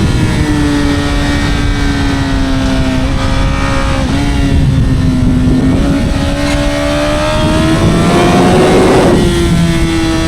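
Honda CBR1000RR's 999cc inline-four engine and exhaust at high revs under way. The pitch sags slightly, climbs again from about six seconds in, and steps up briefly near the end.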